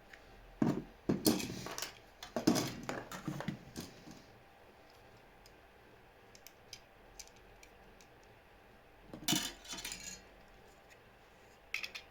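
Clattering and clicking of small hard objects being handled, in three bursts: a long one at the start, another about nine seconds in, and a brief one near the end.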